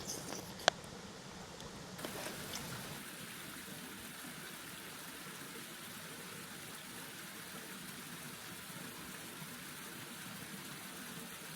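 Mountain stream flowing steadily, with one sharp click a little under a second in and a few fainter knocks about two seconds in.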